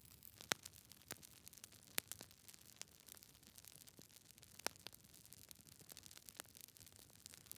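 Logs burning in a fireplace, crackling: irregular sharp pops and snaps, the loudest about half a second in and at two seconds, over a faint steady hiss.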